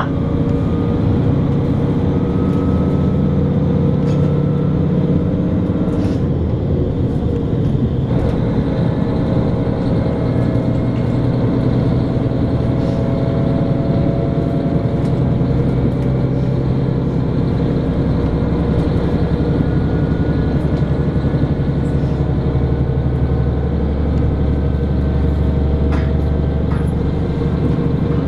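Interior of a diesel local train running along the track: a steady engine drone whose note shifts now and then, over the rumble of the wheels on the rails, with a few faint clicks.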